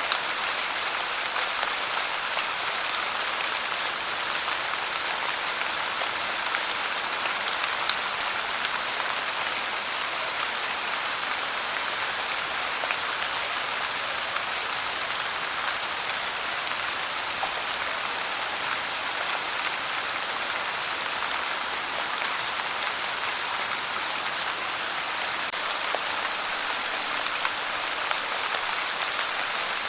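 Steady rain falling on a surface, a constant even hiss with the patter of fine drops.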